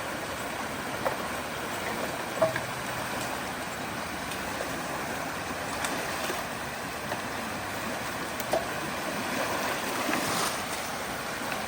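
Fast-flowing creek water rushing at a culvert, a steady wash of noise, with a few brief knocks about one, two and a half, six and eight and a half seconds in, and a brief swell near the end.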